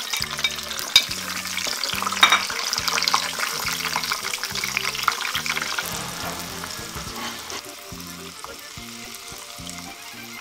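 Whole shallots, garlic cloves and bird's eye chillies frying in hot oil in a small pan: a busy crackling sizzle with sharp pops. It is strongest as the ingredients go in and eases off over the last few seconds.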